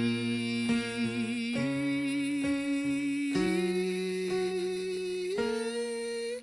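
A singer holds a vowel in sustained notes that step up in pitch four times, over a lower instrumental accompaniment: a vocal warm-up exercise, with the same mouth shape kept from low to high pitch. The singing cuts off sharply near the end.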